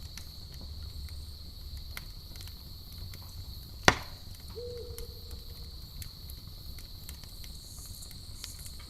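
Campfire crackling with scattered small pops and one loud, sharp pop about four seconds in, over a steady high chirring of crickets and a low rumble. Just after the loud pop comes a single short, low hoot.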